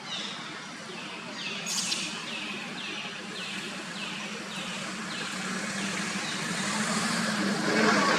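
A motor vehicle engine running, growing louder near the end as it draws closer. Under it, a short falling chirp repeats about twice a second for several seconds.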